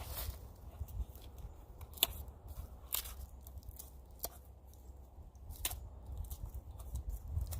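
A few sharp wooden knocks and snaps, one every second or so and then further apart, over a low rumble, from working a dead standing tree with a wooden baton.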